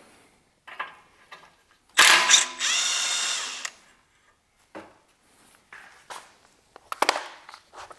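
A handheld power tool running a bolt out for just under two seconds, its whine rising as it spins up, followed by a few scattered light clinks and knocks.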